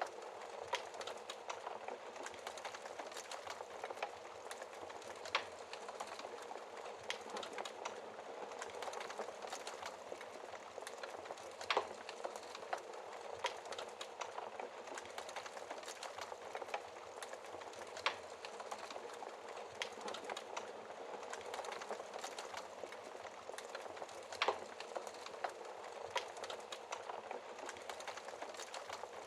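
Wood fire burning in a fireplace: a steady soft crackle of many small ticks, with sharper louder pops every few seconds.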